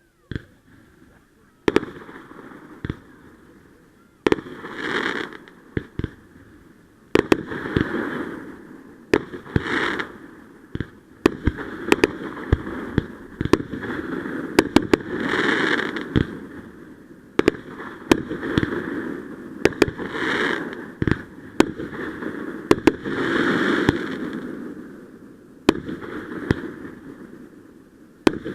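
Fireworks going off in a steady series, with sharp bangs every second or two and swells of crackling noise between them.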